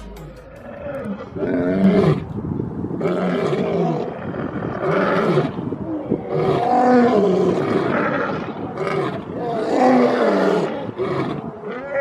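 Lion roaring: a run of deep roars one after another, every second or two, each rising and falling in pitch.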